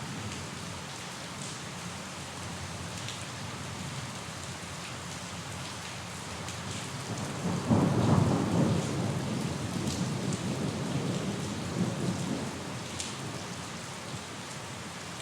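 Steady rain falling, with scattered drops ticking on a surface. About halfway through, a roll of thunder swells up sharply and rumbles for several seconds before fading.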